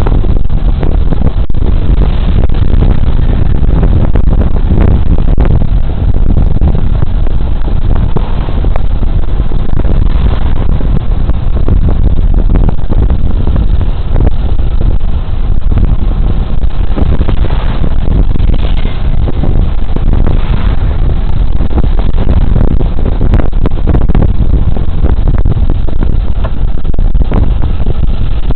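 Suzuki Burgman Street 125 scooter under way, heard through a body-worn camera's microphone: a loud, steady rush of wind and road noise with the engine's drone underneath.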